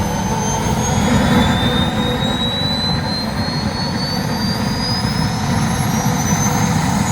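Model gas turbine engine of a large radio-controlled jet plane running loud and steady, a rushing roar with a thin high whine that climbs slowly in pitch throughout.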